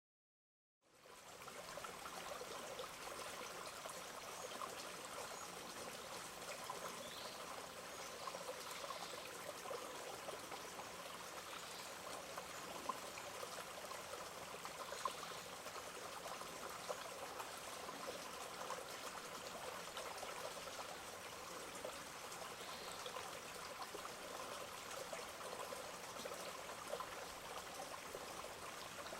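Shallow running water in a park stream, trickling and splashing steadily; it begins about a second in.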